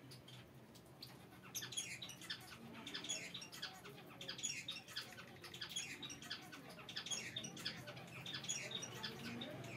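Small birds chirping in a fast run of short, high, falling notes, several a second, starting about a second and a half in, over a steady low hum.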